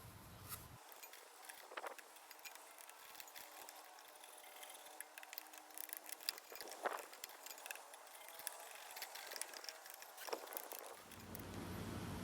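Faint scattered clicks and light knocks over a low hiss, a few of them sharper, about three seconds apart.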